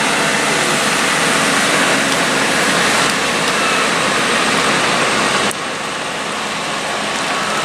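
Heavy vehicle running on a wet road: a steady hiss of tyres through water with engine noise beneath, which drops sharply about five and a half seconds in.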